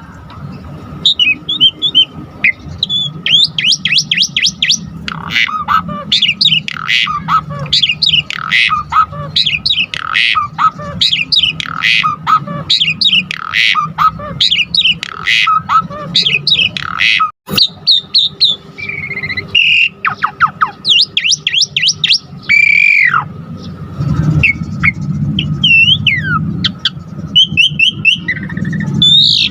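Asian pied starling (Jalak Suren) singing continuously in a rapid, varied stream of whistles, squawks and chatter packed with mimicked calls, with a short break about two-thirds of the way through.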